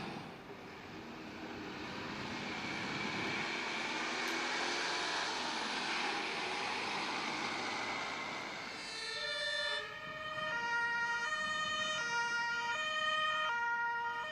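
Road and engine noise of a fire truck under way. About nine seconds in, a two-tone siren starts, switching between a high and a low note about every 0.7 s, the German 'tatütata' two-tone horn of a fire engine.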